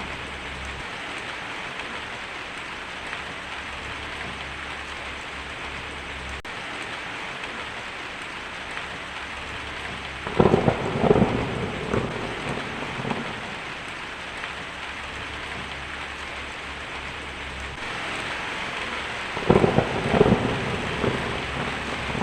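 Heavy rain drumming steadily on a tin roof, with two rumbling thunder claps, one about halfway through and one near the end.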